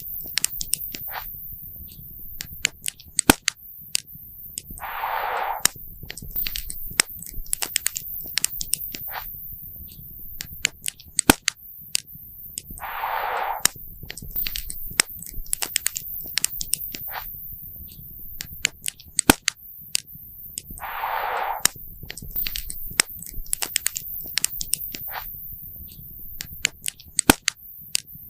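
Wood fire crackling and popping: irregular sharp snaps and pops over a low steady rumble of burning. A short hiss recurs about every eight seconds.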